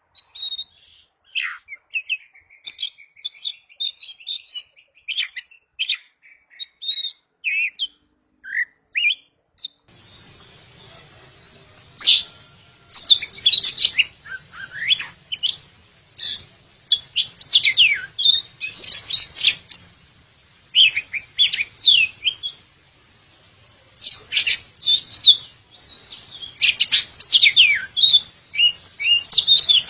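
Oriental magpie-robin (kacer) singing, a rapid run of varied whistles, chirps and trills. About ten seconds in, a louder, denser stretch of song begins over a faint steady background hum, coming in bursts with short pauses.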